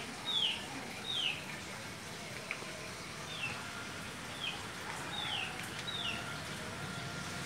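A bird calling over and over: short, high chirps that fall in pitch, about one every second.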